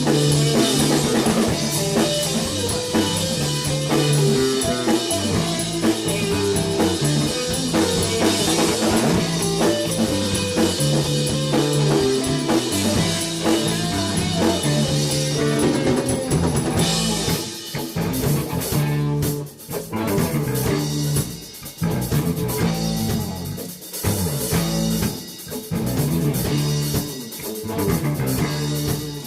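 Rock band playing live: drum kit, electric guitar and bass together. About two-thirds of the way through, the cymbals drop out and the music thins to a sparser, stop-start passage.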